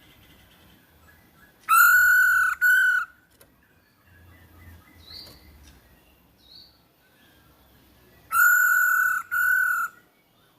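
Poksay hongkong (masked laughingthrush) calling: two loud two-note calls about six seconds apart, each a longer note then a shorter one, with faint high chirps in between.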